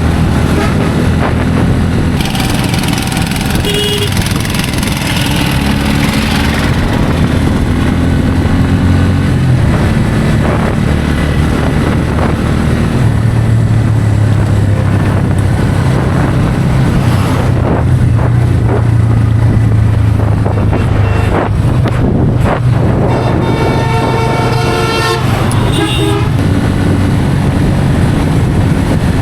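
Bajaj Pulsar N160's single-cylinder engine running at highway speed with wind rushing past, its pitch rising and falling with the throttle, then holding steady. A vehicle horn sounds for about two seconds near the end.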